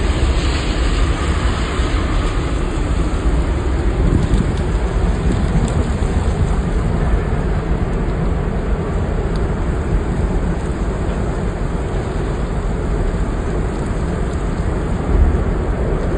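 Strong gusting wind buffeting the microphone: a loud, steady rumble and rush with no distinct impacts.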